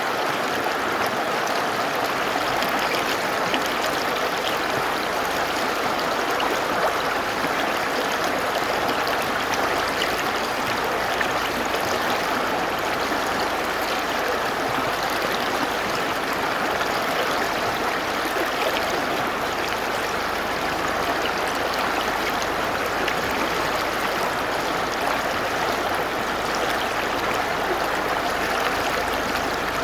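Mountain river rushing over rocks: a steady, even rush of flowing water with gurgling.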